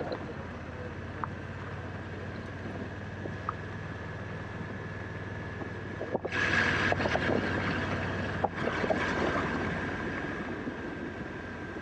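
2019 Honda Africa Twin DCT's parallel-twin engine running steadily under way, with wind rushing over the helmet microphone that turns much louder about six seconds in.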